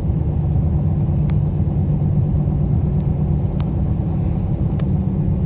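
Steady low road rumble of a vehicle driving along, heard from inside the cab, with a few faint ticks.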